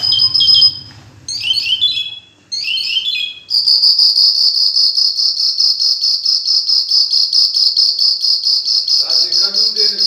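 Short, high chirping song phrases from a bird in a net-covered cage, then, from about three and a half seconds in, a steady, high, rapidly pulsing trill of about five pulses a second.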